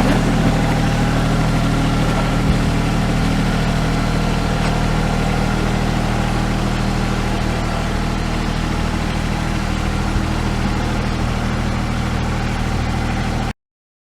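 Massey Ferguson sub-compact tractor's diesel engine running steadily at an even speed, then cutting off suddenly near the end.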